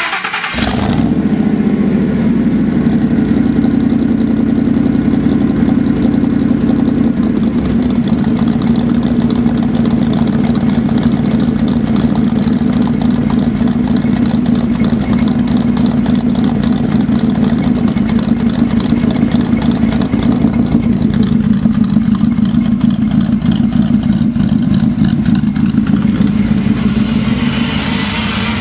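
2001 Ford SVT Lightning's supercharged 5.4-litre V8, with a Kenne Bell 2.3 supercharger, Stage 2 cams and Magnaflow exhaust, flares briefly just after it fires and then settles into a steady idle.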